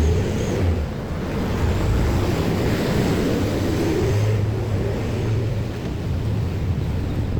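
Steady rumbling noise of vehicles passing a railway level crossing, mixed with wind buffeting the microphone.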